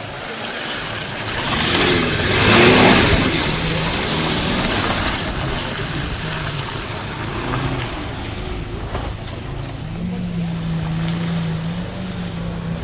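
A racing car's engine passes close, swelling to its loudest about two and a half seconds in, then an engine drones steadily with a low even tone.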